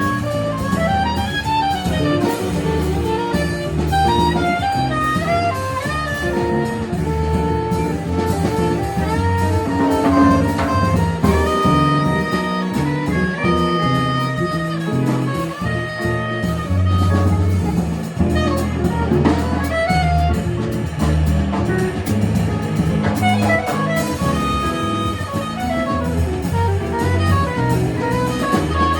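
Jazz quartet playing: a lead melody in quick running notes over bass and drum kit, with cymbals ringing.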